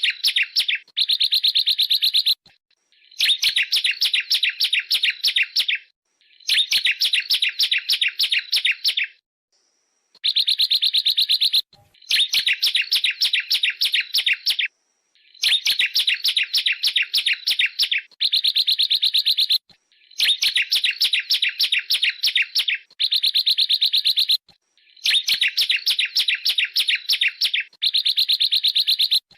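Bar-winged prinia (ciblek) song: rapid, tightly packed trills in repeated bursts of one to three seconds with short pauses between, as used in a bird-tutoring recording.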